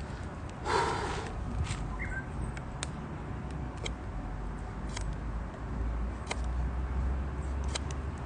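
Wood fire crackling, with sharp pops scattered every second or so. About a second in there is a brief, louder rustling scrape.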